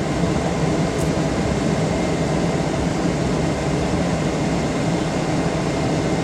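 Steady running noise of a 2004 Dodge Ram 1500's 5.7-liter Hemi V8, heard from inside the cab, with an even low hum that does not change.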